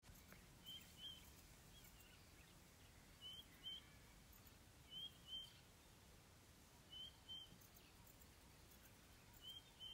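A bird calling faintly, a pair of short high notes repeated five times, about every two seconds, over a faint steady background hiss.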